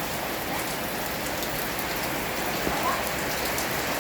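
Heavy rain falling steadily, an even hiss of rain on surfaces with faint scattered drop ticks.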